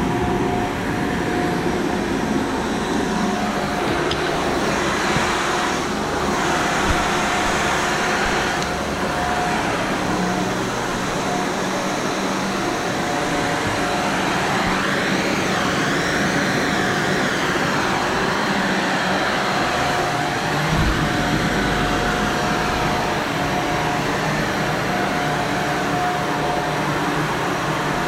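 Upright vacuum cleaner running steadily over carpet, its sound swelling and easing as it is pushed back and forth.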